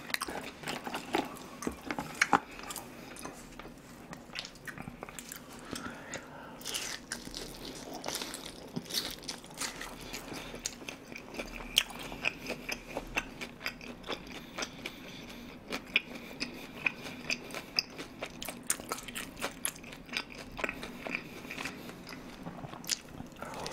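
A person chewing and biting food close to the microphone, with many small crunchy clicks and wet mouth smacks throughout.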